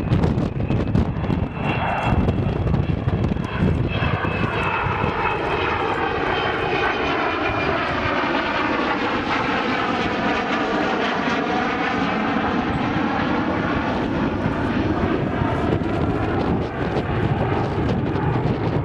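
Fixed-wing aircraft engine noise as an aircraft passes by, with a sweeping change in tone that dips and rises again over about twelve seconds.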